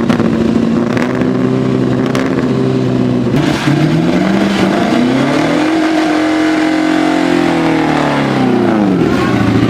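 Fiat 8V's 2-litre 70-degree V8 engine running: steady at first, a brief dip about three seconds in, then the revs climb and hold before falling away near the end.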